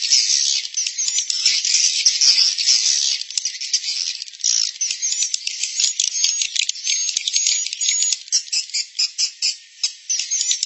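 Swiftlet colony twittering: a dense stream of rapid high chirps and clicks, with short high whistles from about six seconds in. It is a roosting-call lure recording of the kind played in swiftlet houses to draw the birds in to stay and nest.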